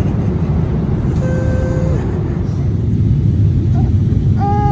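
Steady low rumble of a jet airliner's cabin in flight, with a brief steady tone about a second in.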